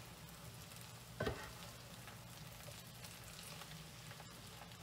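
Potatoes and onions sizzling in butter and oil in a frying pan as they are stirred with a spatula, the potatoes nearly done. About a second in, one brief louder knock of the spatula against the pan.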